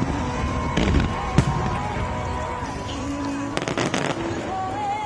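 Aerial fireworks bursting over pop music played loud over loudspeakers for a music-synchronised fireworks show. There are sharp bangs about a second in and a quick cluster of them between three and a half and four seconds.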